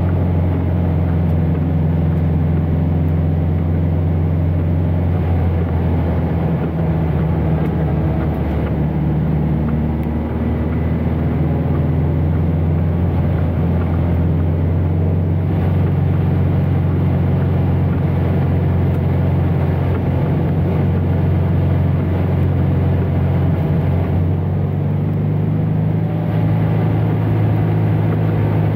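Vintage racing sports car's engine running at fairly steady revs, heard from the driver's seat as the car laps the track.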